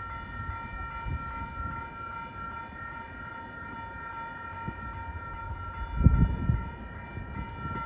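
MBTA commuter train pulling into the station: a low rumble under a steady ringing of high tones. A brief loud low rumble comes about six seconds in.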